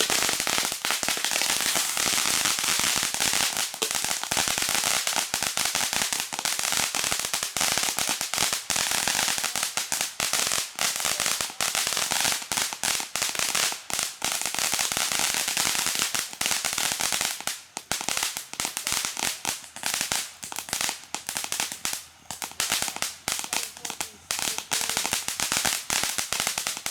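Consumer firework fountains burning on a homemade wheel: a hissing spray of sparks with dense, rapid crackling that thins to scattered pops in the second half.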